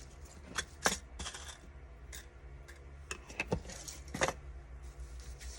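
Paper and craft supplies being handled on a work table: scattered light clicks, taps and rustles, over a steady low hum.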